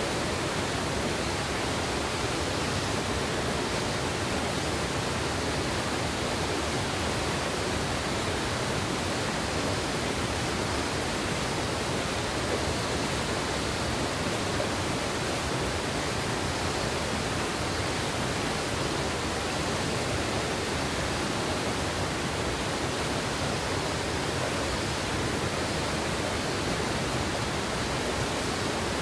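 A gorge river rushing steadily, an even, unbroken sound of flowing water.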